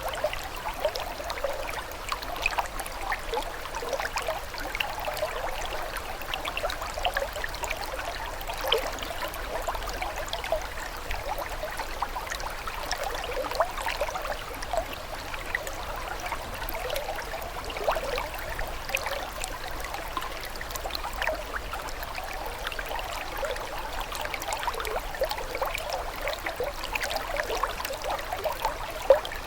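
A small stream of water trickling and burbling steadily, with many quick little droplet-like blips.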